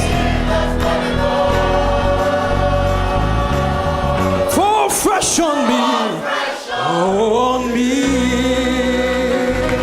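Gospel choir singing long held notes with live band accompaniment. From about five seconds in, the low bass drops out briefly while voices slide up and down in a sung run, then the full chord returns.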